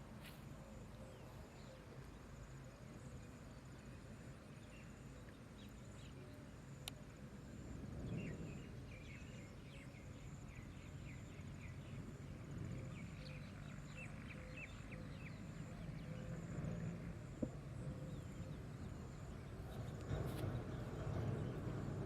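Outdoor rural ambience: a steady low rumble under an insect's thin, high, evenly pulsing buzz, with short bird chirps scattered through the middle.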